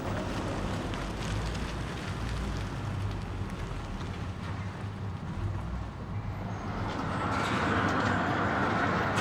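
Low, steady rumble of a passing vehicle, with a rushing noise that swells toward the end.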